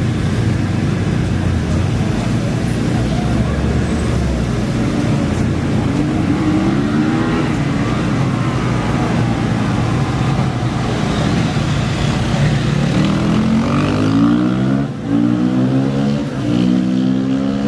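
Off-road racing engines idling low, then revving and pulling away with rising pitch: one climb about six seconds in, and more from about twelve seconds, broken by two short throttle cuts near the end.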